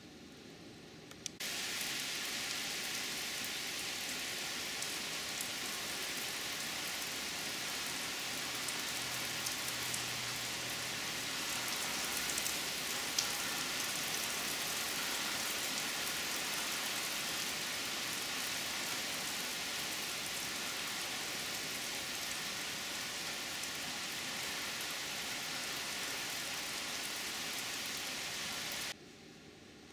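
Steady rain shower falling on the deck, lawn and trees: an even hiss that starts suddenly about a second in and cuts off suddenly near the end.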